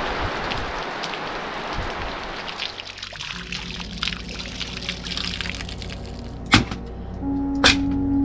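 Rain falling and dripping, heavier at first and then thinning to scattered drips. Two sharp clicks come near the end, as music with a held low note begins.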